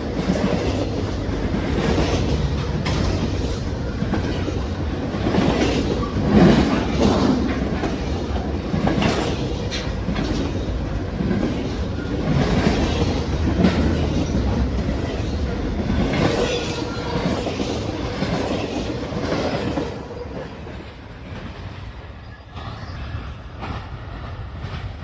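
Norfolk Southern freight train's cars rolling past, wheels clacking over the rail joints over a steady rumble. The sound drops off about 20 seconds in.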